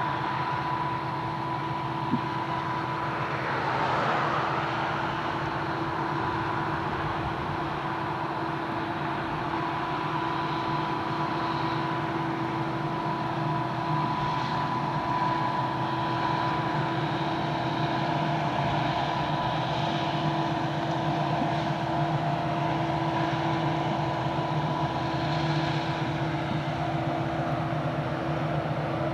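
Norfolk Southern freight train running past, a steady rumble with a few steady whining tones over it.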